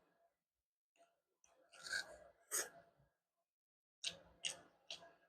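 Close-miked chewing and wet mouth sounds: a couple of sharp smacks about two seconds in, then a run of about four chews, each a little under half a second apart, near the end.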